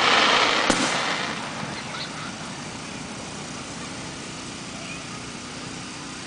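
Fireworks: a loud burst of hissing noise right at the start with one sharp bang under a second in. It fades over about two seconds into steady background noise.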